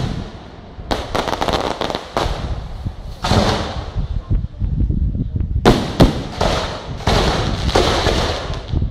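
Fireworks display: a string of sharp bangs, each followed by a few seconds of dense crackling from crackle-effect shells.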